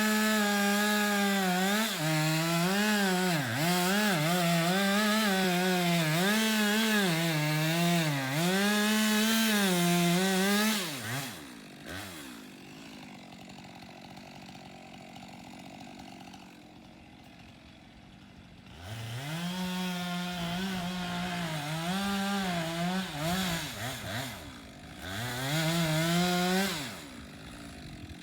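Two-stroke chainsaw cutting wood at full throttle, its pitch dipping and recovering as the chain bites into the cut. About eleven seconds in it drops back to a quiet idle. Near nineteen seconds it revs up and cuts again for about eight seconds before letting off.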